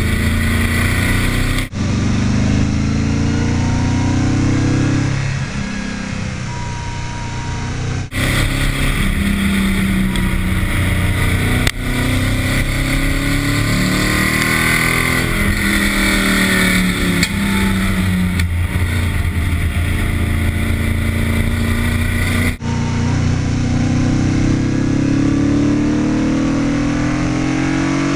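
Audi 4000 quattro's engine accelerating and easing off repeatedly, its pitch rising and falling, over tyre and wind noise. The engine is down on power with two broken pistons.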